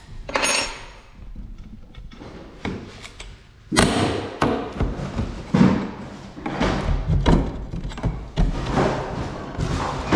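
Small pry bars levering wooden window trim loose from the frame: irregular knocks and thuds, coming louder and more often from about four seconds in.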